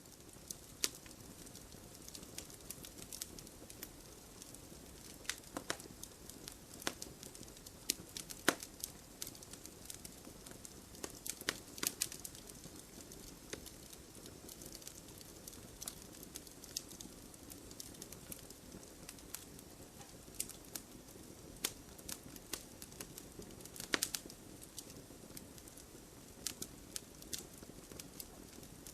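Wood fire crackling in a fireplace: a steady low rush of flame with frequent sharp snaps and pops of burning logs. The loudest pops come about eight, twelve and twenty-four seconds in.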